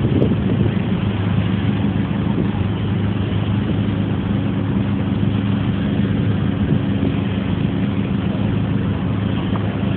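Car engine idling, a steady low hum at an even pitch.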